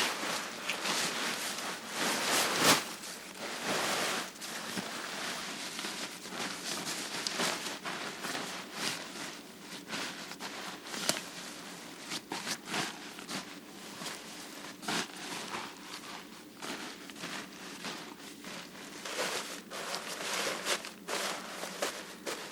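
Irregular rustling and crackling, like dry material being moved or stepped on, with a sharper crunch about two and a half seconds in.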